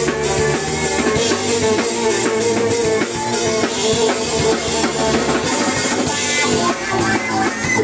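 Live instrumental music from a trio of violin, drum kit and keyboard, the drum kit keeping a busy beat under sustained melodic notes.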